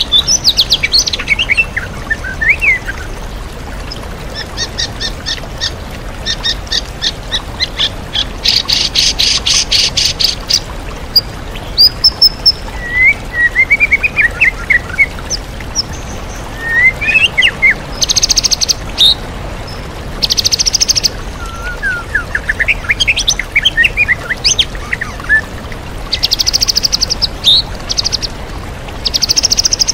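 White-rumped shama singing a varied song of short whistled phrases and loud, rapid buzzing rattles, the mimicked calls of other birds that are worked into its song. Under it runs the steady rush of a waterfall.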